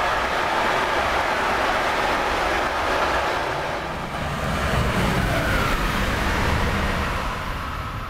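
Intermodal freight train with wagons carrying lorry trailers rolling past, a steady rush of wheels on rails. About four seconds in the noise dips briefly, then a similar steady rush carries on.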